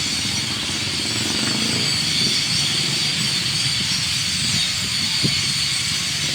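A dense, steady chorus of a huge flock of birds chattering together in one tree, heard as a continuous high hiss-like din, with a low rumble underneath.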